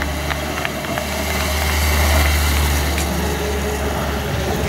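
Motor vehicle engine running over a steady low rumble, swelling to a peak about two seconds in and then easing off as it passes.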